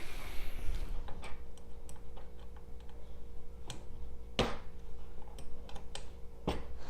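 Scattered light clicks and taps of tools and hand on a Creality Ender 3 3D printer's metal frame and bolts as its fasteners are checked for tightness, a few sharper knocks among them, over a faint steady hum.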